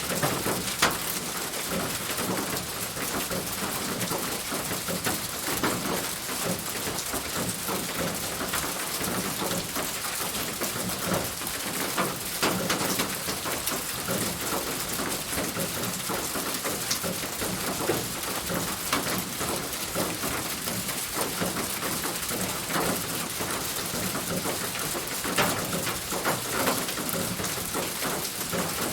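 Rain falling on a roof: a steady patter with many separate drops ticking sharply against the surface.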